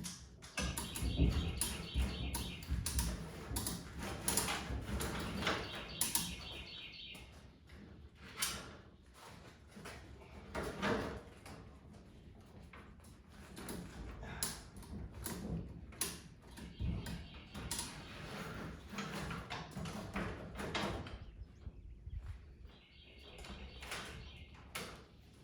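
Irregular clunks, knocks and scrapes of metal as a 1985 GMC K5 Jimmy's body is worked loose and lifted clear of its frame.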